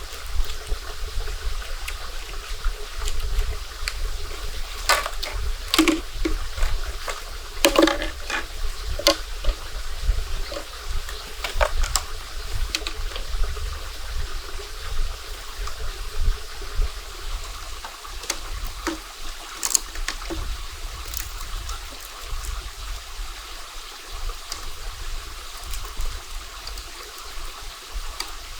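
Water trickling and running steadily, with a low rumble underneath and scattered sharp clicks and knocks, several close together in the first half.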